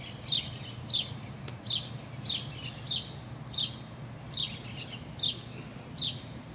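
A small bird chirping over and over, short sharp chirps about one to two a second, over a low steady background hum.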